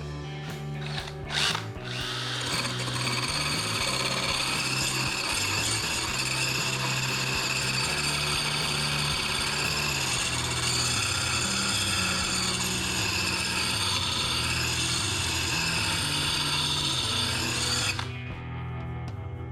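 Electric drill spinning a sanding wheel against the edge of a steel lawn mower blade, grinding steadily with a high whine for about fifteen seconds and cutting off abruptly near the end. Background music plays underneath.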